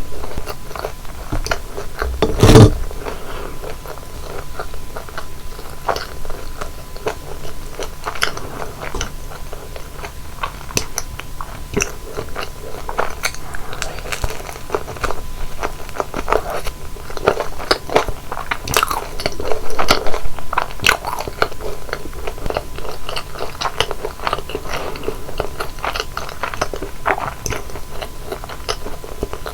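Close-miked bites and chewing of crisp deep-fried flower buns, many crunching crackles throughout. One loud thump about two and a half seconds in.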